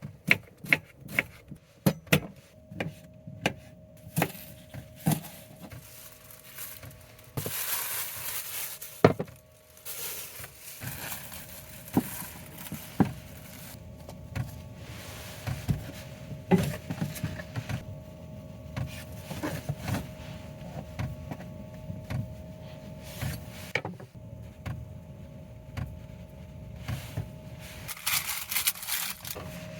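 A run of sharp clicks, knocks and clinks of hard items being handled and set down, closely spaced at first and then more scattered, with two short stretches of hiss.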